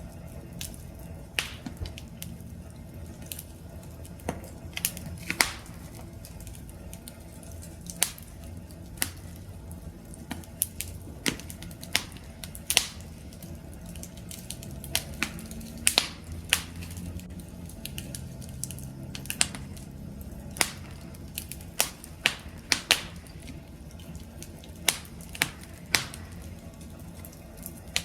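Campfire burning, with irregular sharp crackles and pops every second or so over a low, steady rumble of flames.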